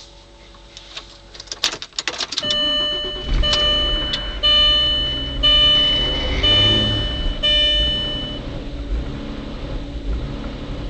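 1999 VW Passat engine cranking and catching a couple of seconds in, then running unevenly with the throttle held open. The owner calls it rough-running after a fuel pump replacement. A dashboard warning chime beeps about once a second for around six seconds as the engine starts.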